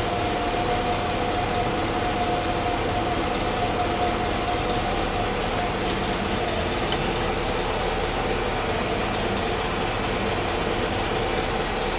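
Willys L-head 134 cubic inch four-cylinder flathead engine idling steadily just after a cold start without choke, still cold and running without missing.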